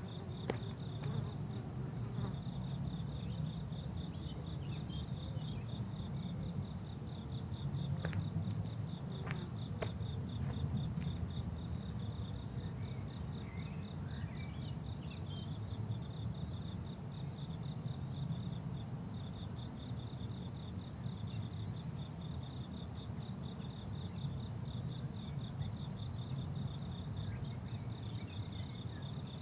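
Crickets chirping steadily in a fast, even pulse, a high-pitched shrill song that carries on without a break, over a low steady rumble.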